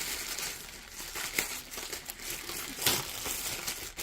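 Plastic packaging crinkling as it is handled and unwrapped by hand, with a few sharper crackles along the way.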